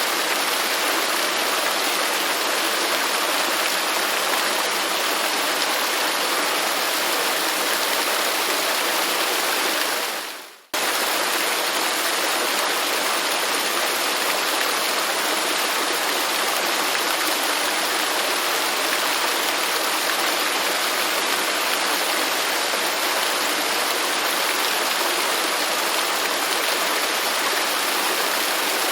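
Waterfall: a steady, even rush of falling water. About ten seconds in it fades away for a moment and then cuts abruptly back in.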